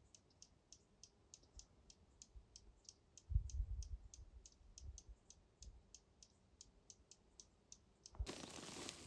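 A bird chipping faintly and steadily, about three short sharp chips a second. A low thumping rumble on the microphone breaks in a little after three seconds, and a rustling hiss starts near the end.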